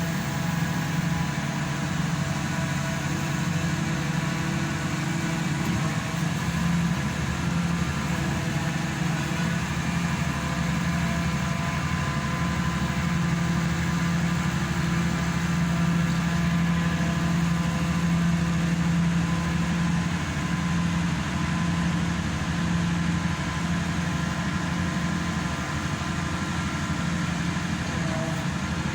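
Engine and hydraulic power unit of a hydraulic static pile driver running steadily, a constant drone with no hammer blows, as the pile is pressed in rather than struck.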